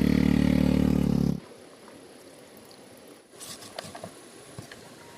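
A loud, low animal call lasting about a second and a half at the start, followed by faint clicks and rustles.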